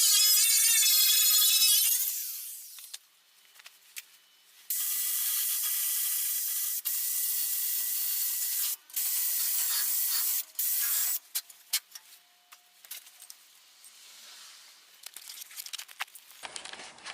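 Angle grinder working rust off the steel bodyshell, its whine wavering under load and then winding down about two seconds in. After a short pause it runs again in a long, steady, noisy stretch broken twice for an instant, and stops about eleven seconds in.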